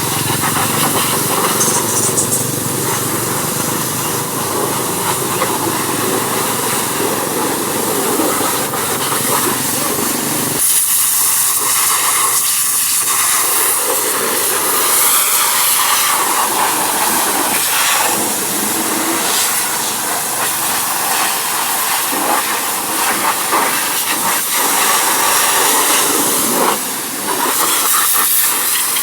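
High-pressure water spray hissing steadily as an engine is washed. A low rumble beneath it drops away about eleven seconds in while the spray carries on.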